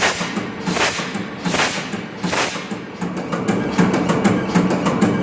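Large MAN B&W 5S35ME low-speed two-stroke marine diesel running: a rapid, steady knocking over a low hum, with a few short hissing rushes in the first half.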